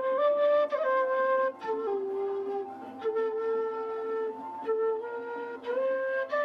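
Flute playing a slow melody of held notes that step up and down, over a steady low drone.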